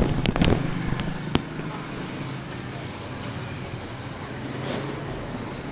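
Steady running noise of a car on the road, with a few sharp clicks or knocks in the first second and a half.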